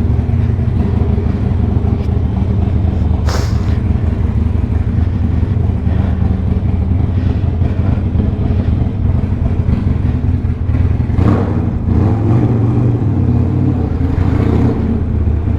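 Harley-Davidson Sportster Iron 1200's air-cooled V-twin running through a Two Brothers 2-into-1 exhaust, a steady, loud, deep rumble. A brief hiss cuts across it about three seconds in, and the engine note roughens briefly around eleven seconds.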